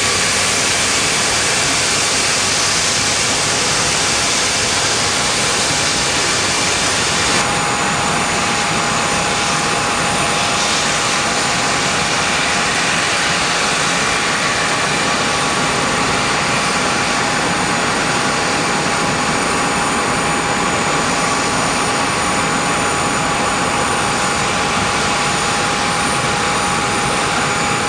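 The four Lotarev D-18T turbofan engines of an Antonov An-124-100 cargo jet running steadily: a loud, even rush with a steady high-pitched whine over it.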